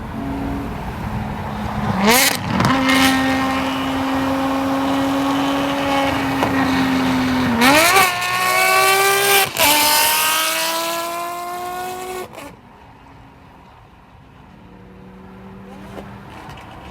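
Ferrari 599's 6.0-litre naturally aspirated V12, breathing through headers and a full race exhaust, revs up sharply, holds a steady note for several seconds, then accelerates hard through two upshifts with a sharp crack at each shift. The sound drops away suddenly after about twelve seconds, leaving a faint low engine note.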